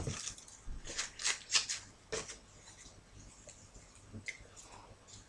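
Short rustling, scratchy strokes of wool and card being handled and pulled through punched holes, about six in the first two seconds, then a few fainter ticks and scrapes.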